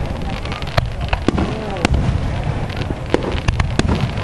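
Aerial fireworks shells bursting overhead in a rapid, irregular series of sharp bangs and crackles over a continuous low rumble.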